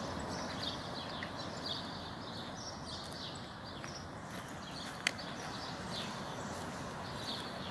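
Birds chirping in short repeated calls from the trees over a steady outdoor rush, with one sharp click about five seconds in.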